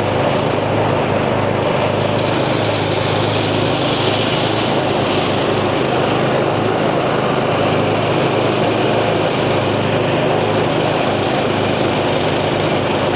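Engine-driven rice thresher running steadily, a small engine's constant drone under the even noise of the machine at work.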